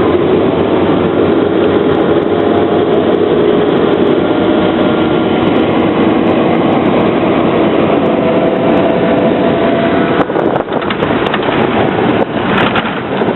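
Vehicle running steadily: a constant roar of engine and road noise with a faint humming drone. Over the last few seconds the sound grows uneven, with a few dips and clicks.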